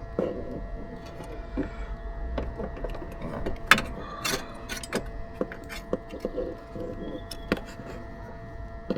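Scattered clicks, taps and rustles of hand tools or a borescope being handled, with two sharper knocks in the middle, over a steady electrical hum of several fixed tones.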